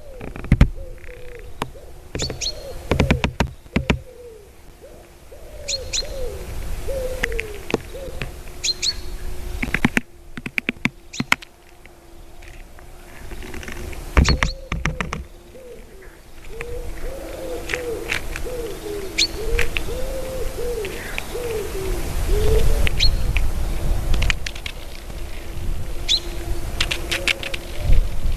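Small birds chirping in short high notes, with clusters of sharp knocks and taps from woodpeckers pecking, over a run of low wavering notes and a steady low hum.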